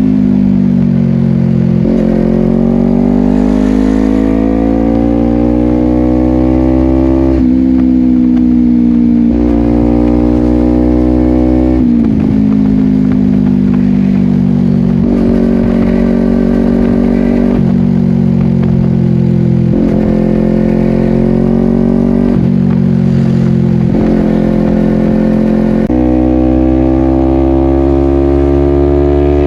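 Honda CBR250RR parallel-twin engine through a Yoshimura exhaust, ridden on the road. Its pitch climbs and falls with sudden jumps every few seconds as the rider changes gear with the quickshifter.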